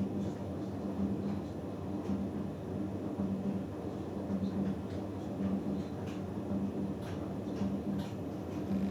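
Hoover Dynamic Next DXA610IW3 washing machine running its cotton cycle, the motor turning the drum with a steady hum that swells in a regular pulse under a second apart, and a few faint knocks from the tumbling load.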